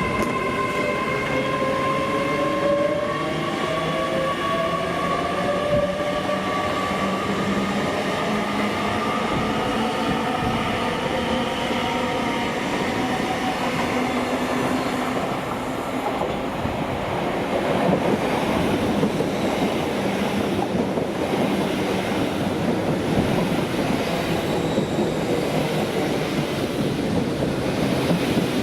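A train passing along the platform. First comes a traction whine of several steady tones, slowly shifting in pitch. About halfway through this gives way to a louder rumble and clatter of wheels on the rails, with regular knocks.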